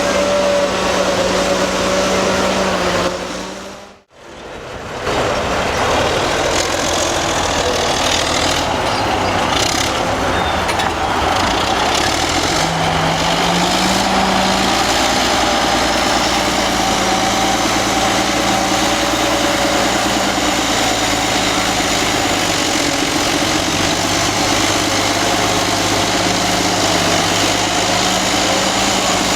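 Old Caterpillar D8 bulldozer's diesel engine running steadily, its pitch rising briefly a little after twelve seconds in. The sound fades out and back in about four seconds in.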